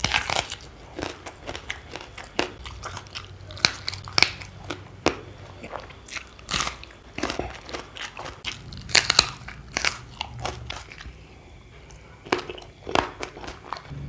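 A person biting and chewing crunchy food close to the microphone: many irregular crisp crunches with quieter chewing between them.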